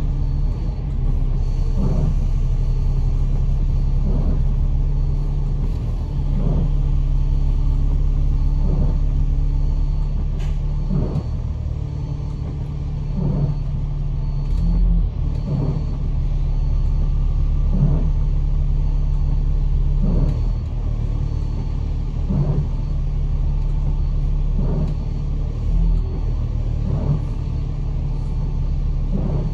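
Bus engine and road rumble heard from inside the cabin on a rainy run, with a regular swish about every two seconds, the pace of windscreen wipers.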